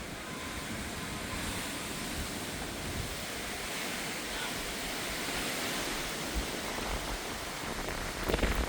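Strong wind rushing steadily ahead of a severe thunderstorm, slowly building. There is a low rumble near the end.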